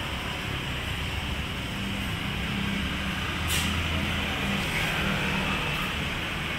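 A motor vehicle's engine running with a steady low drone that swells in the middle, and a short hiss about three and a half seconds in.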